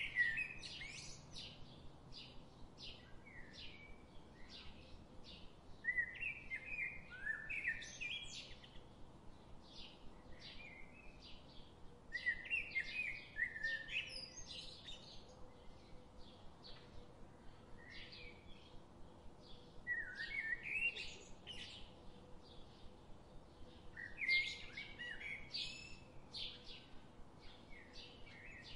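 Birds chirping: short high chirps repeating about twice a second, with a louder burst of twittering song every five or six seconds.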